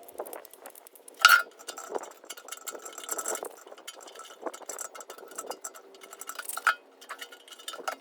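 Metallic clinking and clatter, like hand tools or small metal parts being handled. There are many light taps, with two louder ringing clinks, one about a second in and one near the end.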